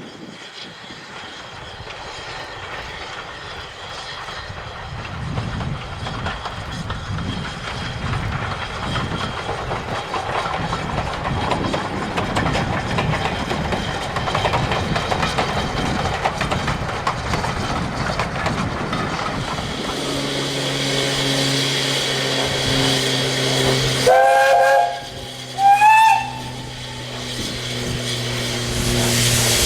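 Steam train approaching, its running noise building steadily. A steady low hum comes in about two-thirds of the way through. The locomotive's whistle then sounds two short, loud blasts near the end, the second rising slightly in pitch.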